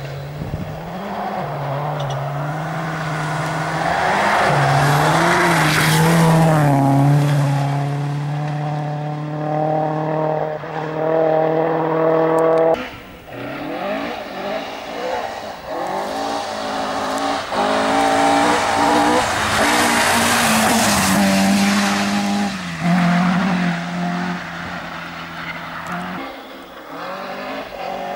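Rally cars driven hard past the spectators, one after the other: each engine is held high with gear changes and a surge of tyre noise as it goes by. The sound breaks off abruptly about halfway through and a second car follows.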